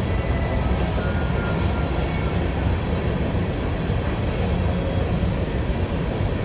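Freight train's covered hopper grain cars rolling past, a steady rumble of steel wheels on rail.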